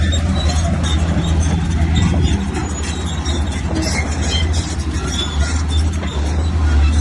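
Bulldozer at work: its diesel engine runs with a steady low drone while the steel tracks squeak and clank over it. The engine eases off a little about a third of the way in and comes back up louder near the end.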